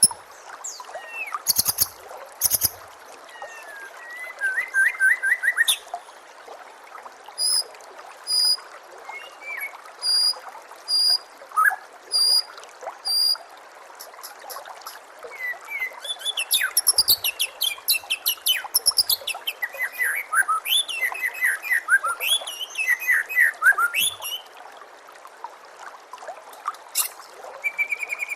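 White-rumped shama (murai batu) singing varied whistled phrases. There is a run of six short, high, evenly spaced notes in the middle, then a stretch of fast, rich warbling. A steady trickle of running water plays under the song.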